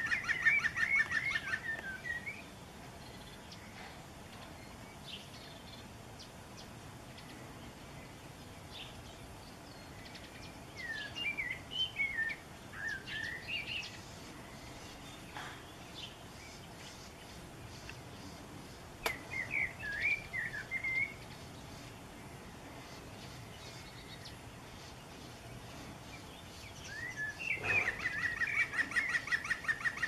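Small birds singing and chirping: a burst of rapid, trilled chirps at the start and again near the end, with shorter warbled phrases around ten to fourteen seconds and twenty seconds in. There is a single sharp click about nineteen seconds in.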